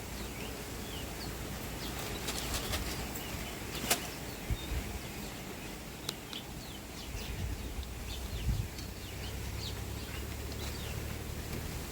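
Small birds chirping over and over in short, quick downward-sweeping calls, over a steady low wind rumble on the microphone. A few sharp clicks cut in, the loudest about four seconds in.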